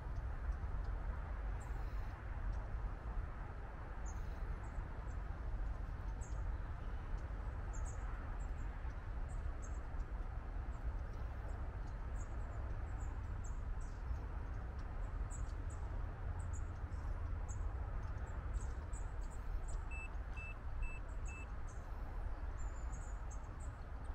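Small birds chirping in short high calls, more often in the second half, over a steady low outdoor rumble. Four short even beeps about twenty seconds in.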